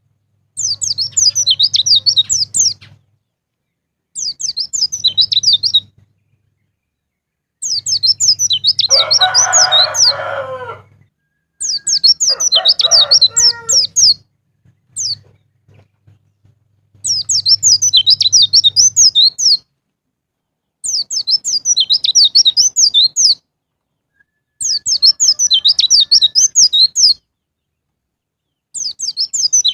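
White-eye (pleci) singing: a rapid, high twittering song in repeated bouts of two to three seconds with short pauses between them. A lower, harsher call sounds under one bout about a third of the way in.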